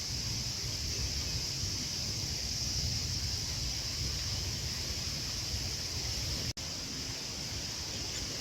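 Outdoor ambience: a steady high insect drone over wind rumbling on the microphone, with a brief dropout about two-thirds of the way through.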